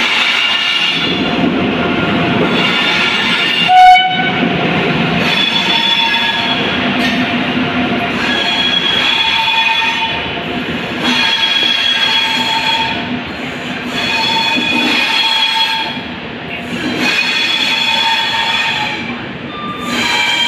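Indian Railways passenger train rolling slowly along a platform, its wheels squealing in high steady tones that come and go every couple of seconds over the rumble of the coaches. There is one short loud bang about four seconds in.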